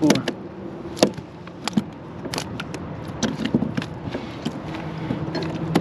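Irregular knocks, clicks and scrapes of fish and gear being handled on a plastic kayak. Under them runs a faint steady hum from the kayak's Minn Kota trolling motor, which grows a little louder near the end.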